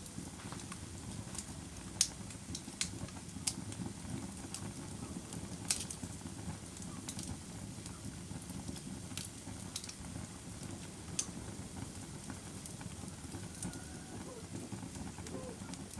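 Wood fire burning in a fireplace: a steady low rush of flame with sharp crackles and pops at irregular intervals, the loudest pops about two seconds in and just before six seconds.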